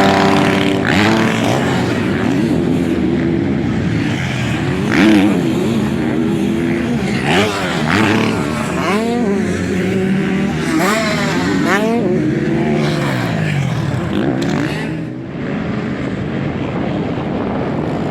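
Several motocross motorcycles racing, their engines revving up and down in overlapping rising and falling whines as riders accelerate, shift and pass.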